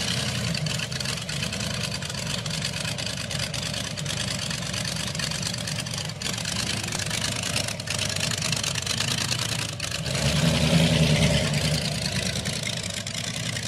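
Supercharged V8 of a rat rod idling through open short headers, then getting louder for a second or two about ten seconds in as the car pulls away.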